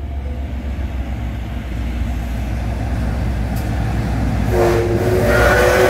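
Train led by a diesel-electric locomotive approaching, its low engine rumble growing steadily louder; about four and a half seconds in the train sounds a loud horn, several steady tones held together.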